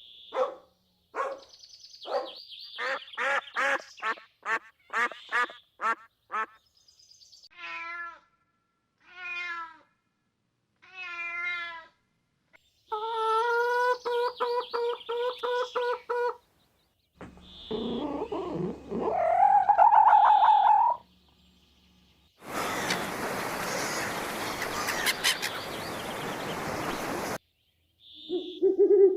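A run of different animal calls, one clip after another. The run includes a cat meowing three times, a fast string of repeated calls, a rising call, and a harsh, noisy sound lasting about five seconds near the end.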